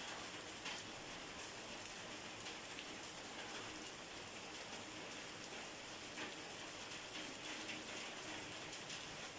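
Steady rain falling on a surface, an even hiss of rain with scattered individual drops ticking through it.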